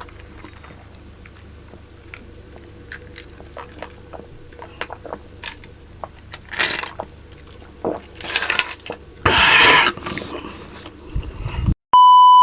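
Close-miked eating sounds from a mukbang of pork sinigang soup: chewing with many small mouth clicks, then three louder, noisy mouth sounds in the second half. Near the end the sound cuts out, and a steady electronic beep follows.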